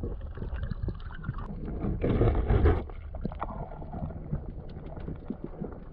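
Water and wind noise around a small boat, with scattered knocks and a louder rush of noise about two seconds in.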